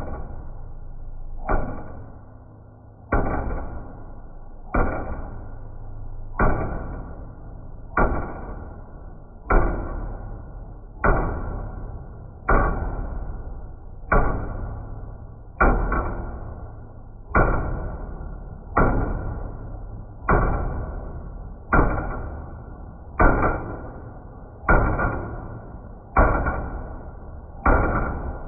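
A metal pan struck with a big metal spoon at a slow, even beat, about once every second and a half, each clang ringing on and dying away before the next. The banging is loud enough to set uncooked rice on plastic wrap bouncing, showing sound as vibration.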